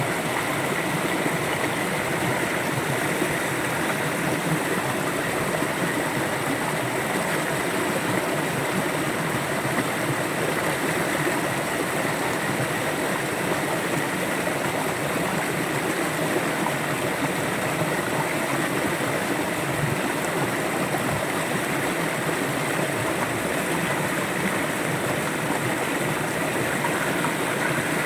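River water flowing steadily, a continuous even rush and babble with no breaks.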